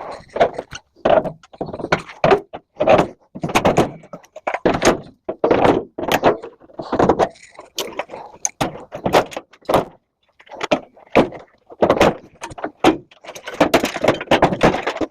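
Irregular knocks, clanks and rattles of sheet-metal microwave parts and panels being pulled apart and handled during scrapping, roughly one or two a second, growing busier near the end.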